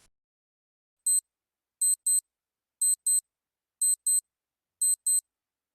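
Countdown-timer sound effect: short, high-pitched electronic ticks, a single one about a second in, then pairs about once a second, timing the pause for a quiz answer.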